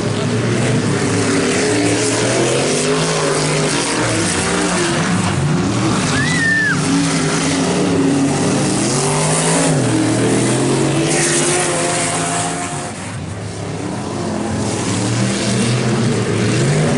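Several race truck engines running hard on track, their pitches rising and falling as they accelerate and lift off, with a short high squeal about six seconds in and a brief drop in loudness around thirteen seconds in.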